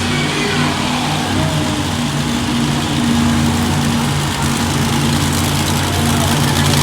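Monster truck engine idling steadily, a low, even rumble.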